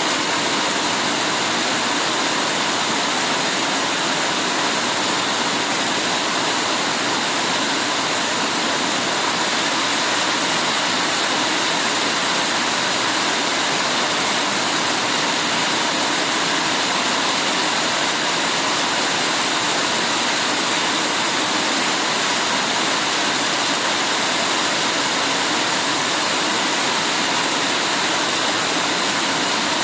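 Heavy rain falling steadily, a dense unbroken hiss of water with no single drops or pauses standing out.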